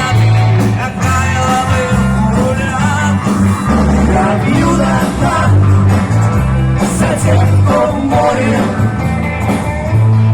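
Live pop-rock band music: a steady bass line under a wavering melody.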